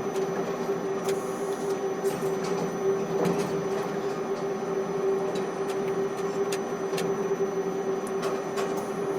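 Ship-to-shore container crane machinery running with a steady hum, with scattered clicks and knocks.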